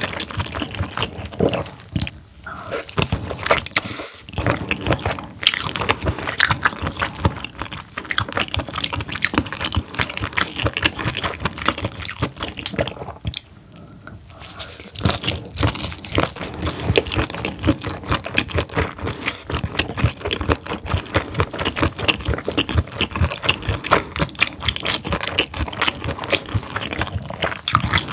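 A person eating steamed whole squid stuffed with its innards close to the microphone: steady chewing and biting, many small clicks and mouth noises, with a short quieter spell about halfway through.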